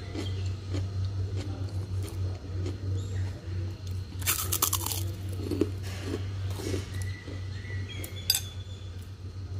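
Close-up mouth sounds of eating: chewing, with one loud crunch about four seconds in as a crisp, crinkly fried piece is bitten, and a smaller crack later. A steady low hum runs underneath.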